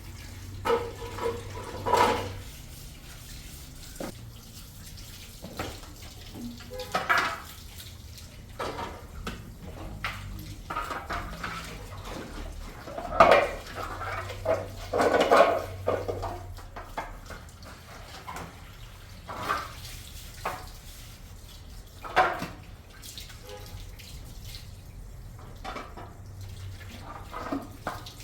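Water splashing and dishes and pots clattering in a sink, in short irregular bursts over a low steady hum.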